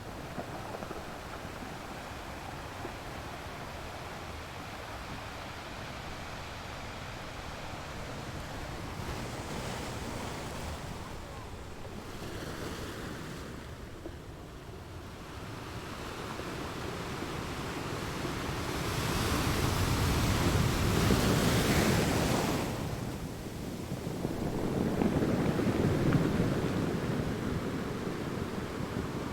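Ocean surf washing steadily, with two bigger waves breaking and rushing in about two-thirds of the way through, the first the loudest.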